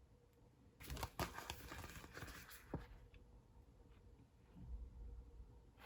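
Faint handling sounds: a short stretch of crackly rustling with several sharp clicks about a second in, a single click a little later, and a soft low bump near the end.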